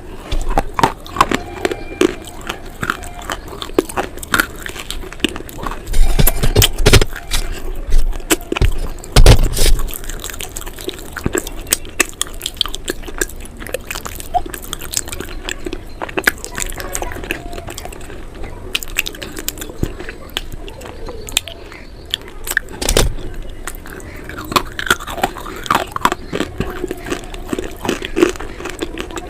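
Close-up crunching and chewing of hard, brittle pieces in a mouth: a dense run of sharp crackles, with a few louder bites around six, nine and twenty-three seconds in.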